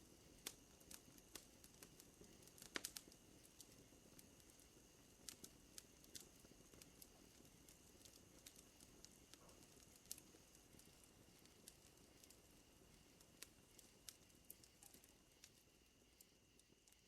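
Faint crackling fire: irregular pops and snaps, with a cluster of sharper cracks about three seconds in, over a steady high-pitched hum.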